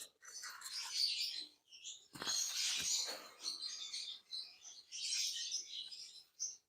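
Small birds chirping and chattering continuously in quick, high-pitched bursts. There are a couple of soft knocks about two seconds in.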